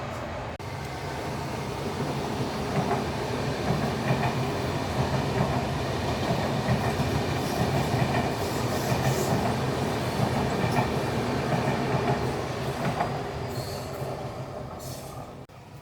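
A train running past on the rails, its wheels clattering steadily over the track. The sound fades away over the last few seconds.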